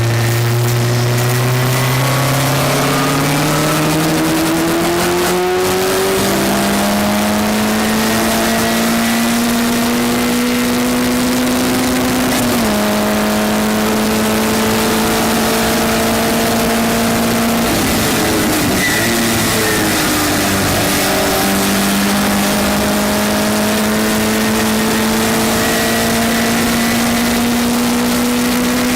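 Westfield race car's engine heard from an onboard camera, pulling hard with its pitch climbing steadily for long stretches. There is a quick upshift about twelve seconds in, and a lift with the revs dropping about two-thirds of the way through, before it accelerates again.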